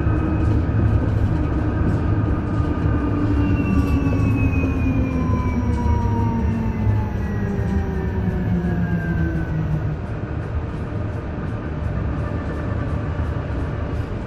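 Isuzu Erga EV electric bus running, its electric drive whine over low road rumble. About four seconds in, the whine slides down in pitch for several seconds as the bus slows.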